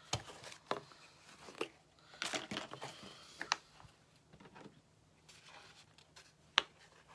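Handling of small craft materials: light rustling and scattered soft clicks of plastic and paper pieces being worked by hand, with one sharper click near the end.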